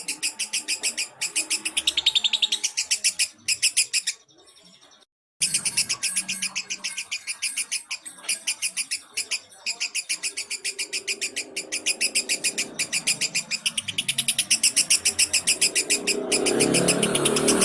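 Lovebird chattering in a fast unbroken train of high chirps, about eight a second, used as a masteran lure song to set other lovebirds singing. The song drops out for about a second a little after four seconds in. Near the end a lower, rougher noise joins it.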